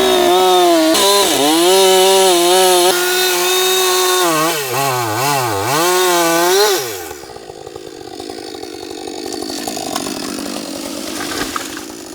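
Chainsaw running hard and cutting, its engine note rising and falling in pitch. About seven seconds in it drops off sharply to a much quieter, rougher sound.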